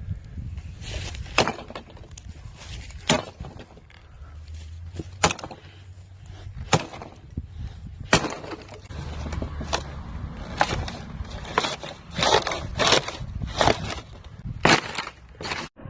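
Splitting maul striking and breaking a mini fridge: a dozen or so hard blows at irregular intervals, coming faster in the second half, with cracking and breaking between them.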